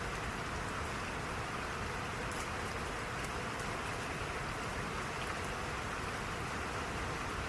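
Steady rain falling, an even hiss of rain with faint scattered drop ticks.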